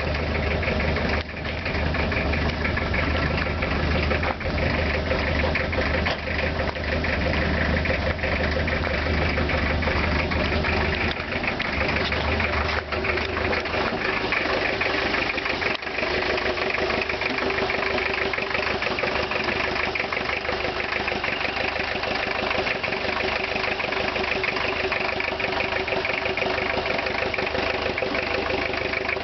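Ford Ranger's 2.2-litre four-cylinder diesel idling cold after a cold start, with a steady diesel clatter. A heavy low rumble drops away about twelve seconds in.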